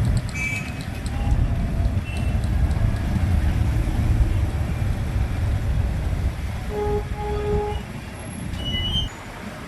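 Low, steady rumble of road noise on a ride through city traffic. A vehicle horn honks twice, a short toot and then a longer one, about seven seconds in, with a few brief high beeps around it. The rumble drops off suddenly near the end.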